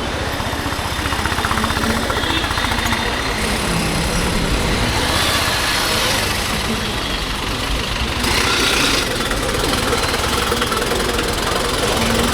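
Honda H'Ness CB350's single-cylinder engine running steadily through its exhaust, heard from the rider's position, with a short burst of hiss about two-thirds of the way through.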